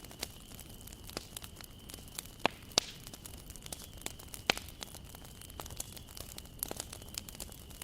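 Wood fire burning in a bonfire: irregular sharp crackles and snaps over a soft hiss, with a few louder pops about two and a half, three and four and a half seconds in.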